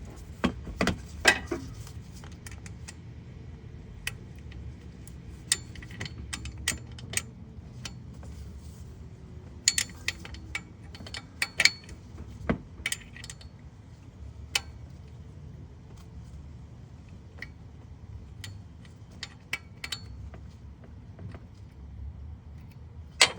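Hand wrench working on a bolt: scattered, irregular metallic clicks and clinks of the tool against the bolt and surrounding engine parts as the crankshaft position sensor's retaining bolt is snugged down, over a steady low hum.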